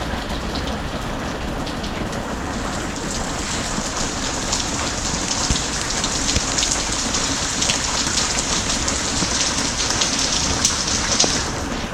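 Rain falling steadily. A few seconds in, a denser, brighter patter of drops joins it and then cuts off abruptly near the end.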